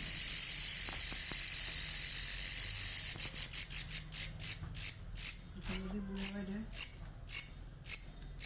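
Cricket chirping: a continuous high trill that, about three seconds in, breaks into separate chirps, quick at first and then slowing to about two a second.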